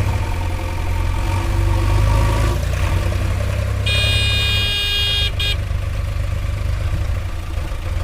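Diesel engine of heavy farm machinery running steadily, with a high-pitched vehicle horn sounding once for about a second and a half around four seconds in.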